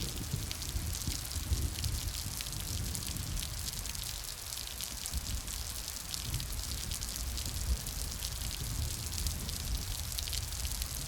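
Steady rain, with a dense patter of individual drops over a continuous hiss and a low rumble underneath.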